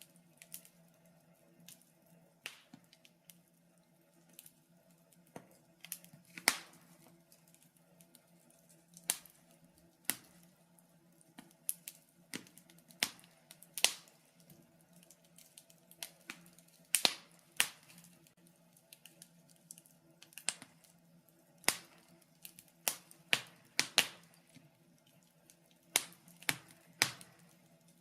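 Wood fire crackling in a fireplace: irregular sharp pops and snaps, one or two a second and some louder than others, over a faint steady hum.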